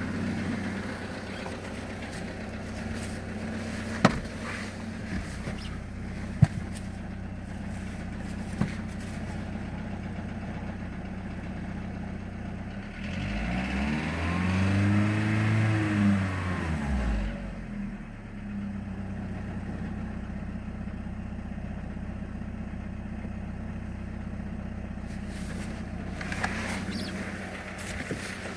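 Audi A2's 1.4-litre BBY four-cylinder petrol engine, with about 350,000 km on it, idling steadily. About 13 seconds in it is revved once, rising and falling back to idle over about four seconds, and then it idles on. A few sharp clicks are heard in the first several seconds.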